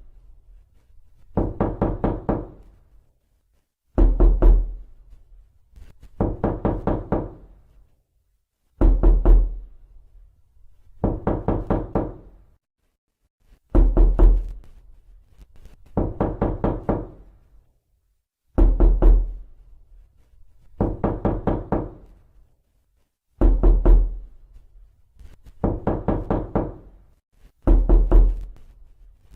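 Knocking on a door: quick runs of about five or six knocks, each run about a second long, repeating about every two and a half seconds, with a heavier thud at the start of every other run.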